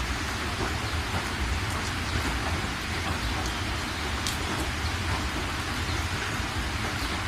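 Steady rain hiss with a low rumble beneath it and a few sharp drop ticks.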